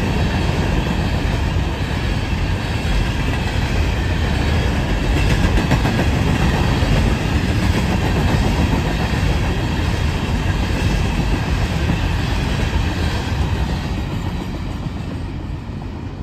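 Empty rock-train freight cars rolling past, wheels clacking over the rail joints in a steady rumble that begins to fade near the end as the train moves off.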